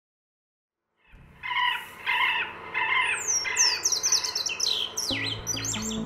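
Birds calling: a string of about six short, evenly repeated calls, then a busy chorus of quick, high, descending chirps and whistles from several birds. A low held musical note comes in about five seconds in.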